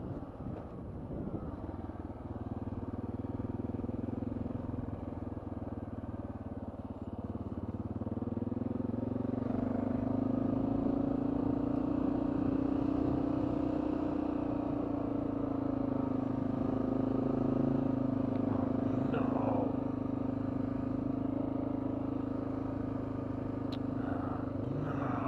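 Honda XR650L's single-cylinder four-stroke engine running steadily at low speed while ridden, its note rising a little about a third of the way in and then holding.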